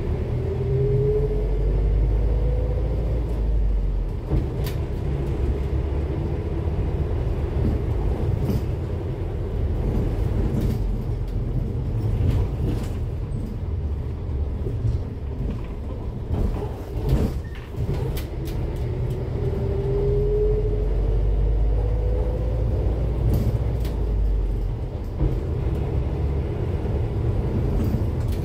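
Cummins ISF3.8 four-cylinder turbodiesel of a Daewoo Lestar bus running under way, heard from aboard as a steady low rumble. A rising whine comes in twice, right at the start and again about 20 seconds in, as the engine pulls harder. Short knocks and rattles are scattered throughout.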